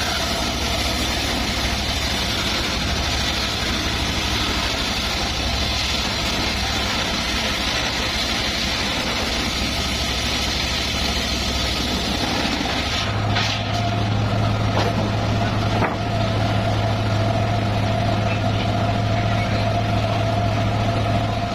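Engine-driven home-built circular sawmill running steadily, a constant engine hum under a dense mechanical noise; the low hum grows stronger about thirteen seconds in.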